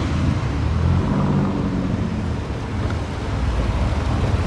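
Car engine running as a car drives by at low speed, its low engine note rising and falling slightly.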